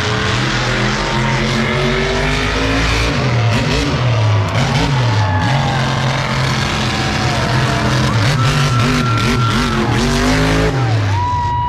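Engines of big show trucks revving hard over and over, the pitch climbing and dropping again and again, with several engines sounding at once.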